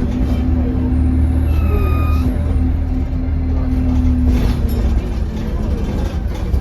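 Euro 6 Alexander Dennis Enviro200 bus engine running with a steady low drone and whine, the drivetrain pulling, with a brief high whistle rising and falling about two seconds in, the turbo whistle of a bus with a turbo leak. A hiss of air near five seconds, typical of the air brakes.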